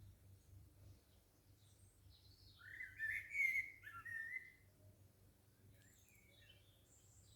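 Garden birdsong: a nearby songbird sings one loud, fluty warbling phrase about three seconds in, lasting around two seconds. Fainter high chirps from other birds come and go around it.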